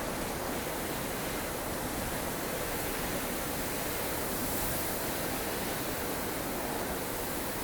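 Strong wind of a blustery snow storm blowing steadily, with a gust swelling in the hiss about halfway through.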